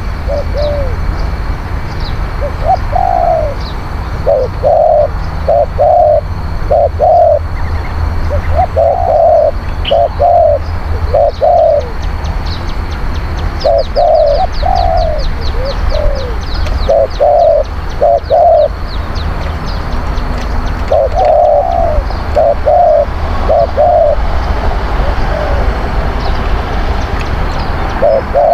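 Spotted doves cooing: short phrases of a few low coo notes repeated again and again, with a brief run of quick high chirps near the middle and a steady low rumble underneath.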